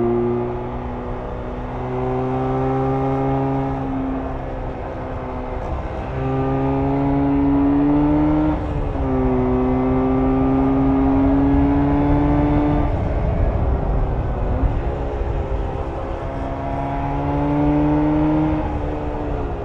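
1994 Jawa 350 type 638 two-stroke twin, stock exhaust, pulling under load: the engine note climbs several times and drops sharply between climbs as gears are shifted, with a stretch of lower, rougher running off the throttle about two-thirds of the way through.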